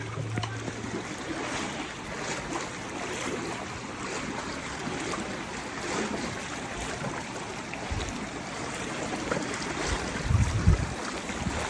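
Floodwater rushing steadily, with a few low thumps near the end.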